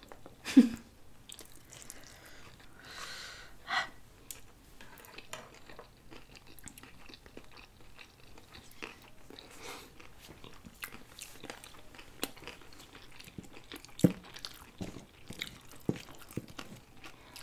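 Sushi rolls being bitten and chewed close to the microphone: quiet, wet chewing with small crunches and scattered mouth clicks, and a brief louder sound about half a second in.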